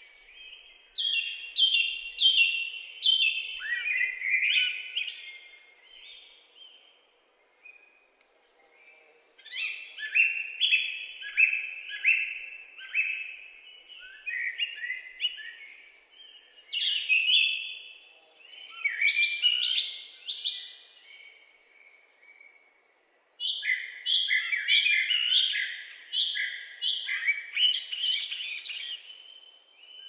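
Songbird singing in bouts of quick, repeated high chirping notes, each phrase lasting a few seconds. There are brief pauses, the longest just before the midpoint and a shorter one about three quarters of the way through.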